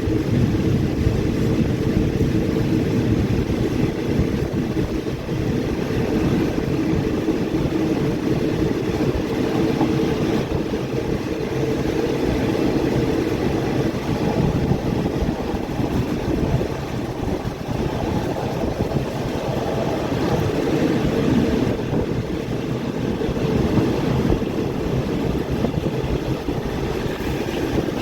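Passenger train in motion: a steady low rumble of the running train.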